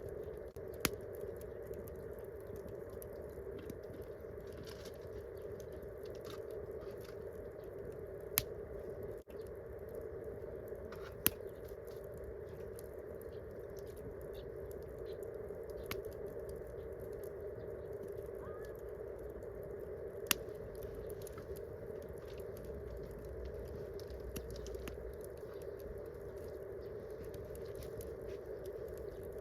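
Wood campfire crackling, with many small ticks and four sharp pops, over a steady background hum.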